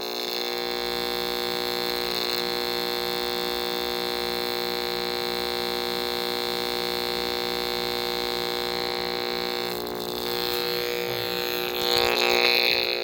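Steady electrical buzz with many overtones and a faint regular pulse from a running microwave oven, growing louder near the end.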